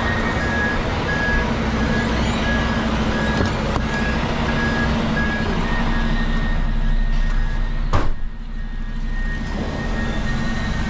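Truck engine running with a reversing alarm beeping at an even pace. The beeping stops about seven seconds in, a sharp click follows about a second later, and the sound drops briefly before the engine hum and beeping return near the end.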